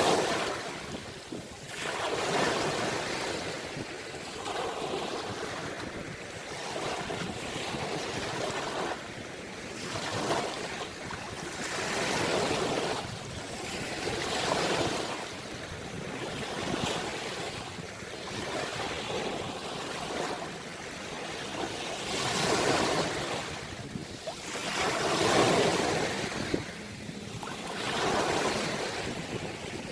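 Ocean surf: waves breaking and washing in, the rush of water swelling and falling back every few seconds, with a few larger breakers standing out.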